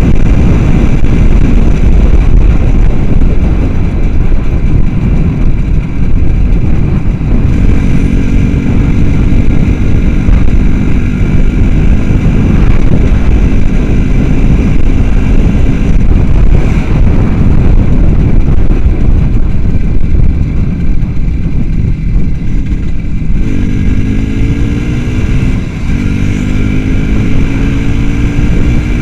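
Small motorcycle engine running under way over a loud, steady low rumble, its pitch climbing in short rising runs several times in the second half as it accelerates through the gears.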